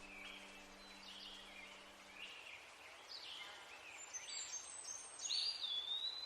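Faint forest birdsong: several birds giving short chirped phrases, with a clear whistle that dips and then holds steady near the end. A low steady tone fades out about two seconds in.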